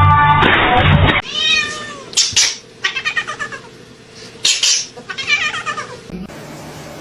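A cat meowing about four times, short rising-and-falling calls a second or so apart, after a second of background music.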